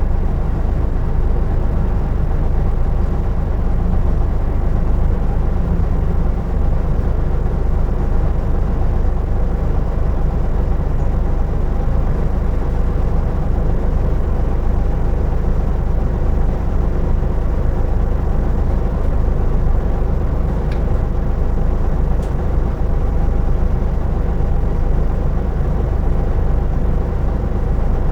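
2003 Isuzu Erga Mio (KK-LR233J1) city bus's diesel engine and drivetrain running steadily under way: a constant low rumble with a steady engine hum.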